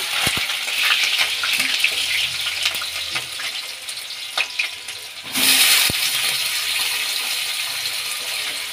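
Raw potato slices sizzling and crackling in hot cooking oil. About five seconds in, the sizzling swells suddenly as more slices go into the oil.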